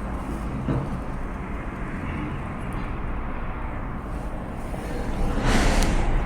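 Steady low rumbling background noise, with a louder rushing noise coming in about five and a half seconds in.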